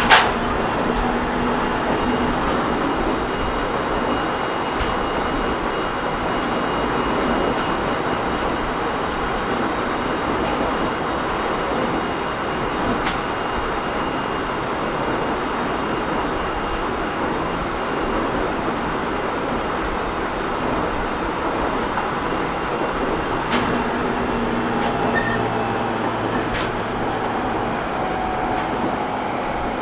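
Running noise of an E127 series 0 electric train heard from inside the car: a steady rumble of wheels on rail at speed. There is one sharp click right at the start and a few fainter clicks later, and a faint humming tone comes in and out about three-quarters of the way through.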